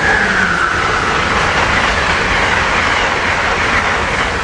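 Amtrak Siemens ACS-64 electric locomotive and its passenger train passing at speed, with a loud steady rush of wheels on rail. A faint high whine falls slightly in pitch over the first few seconds.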